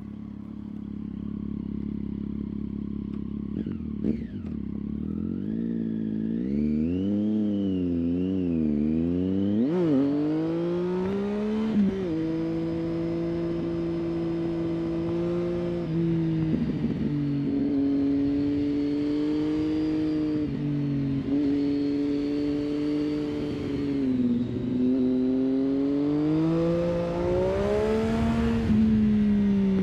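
Triumph Street Triple 675 inline-three engine through an aftermarket 3-2 exhaust, idling at first, then blipped several times before pulling away. It then runs under load, the pitch climbing and dropping back at each gear change.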